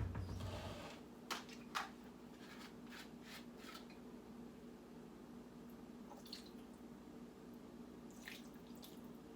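Quiet kitchen handling sounds while marinating chicken: a soft swish in the first second, then scattered light clicks and taps, with a faint steady hum underneath.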